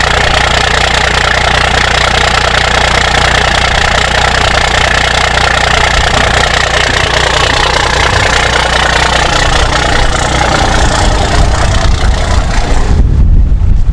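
Cummins 5.9 inline-six diesel in an old Dodge pickup idling steadily just after a cold start in freezing weather. Near the end, wind buffets the microphone loudly.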